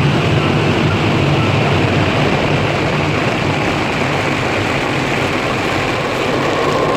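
Automatic car wash running: a steady loud rushing noise with a low hum underneath.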